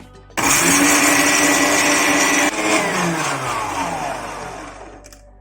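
Electric mixer grinder grinding fried dried coconut to a powder: the motor starts suddenly with a loud whirring grind, runs about two seconds, then is switched off and winds down with a falling whine that fades away.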